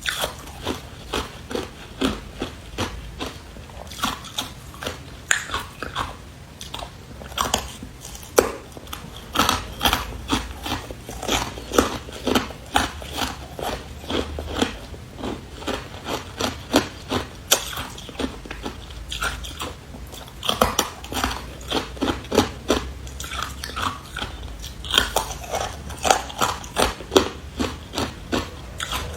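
Hard carbonated ice being bitten and chewed close to the microphone: a continuous run of sharp crunches and cracks, two or three a second.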